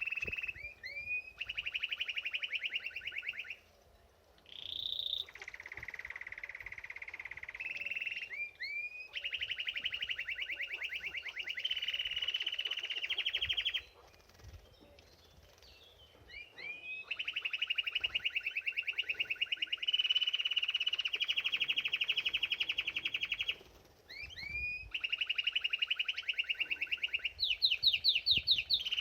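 Domestic canary singing: long rolled trills of rapid, evenly repeated notes, each phrase opened by a few quick upward-sweeping whistles, with three short pauses between phrases.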